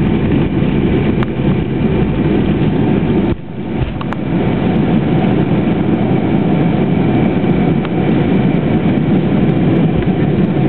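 Boeing 727 at takeoff power, heard inside the cabin: its three rear-mounted turbofan engines and the rushing airflow make a loud, steady rumble. The noise drops briefly about three seconds in, then carries on.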